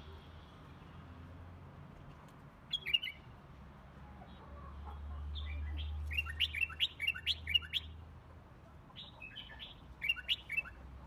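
Small birds chirping in short clusters of quick, high chirps: once about three seconds in, a longer run from about five to eight seconds, and again near the end. Under them a low rumble swells and fades through the middle.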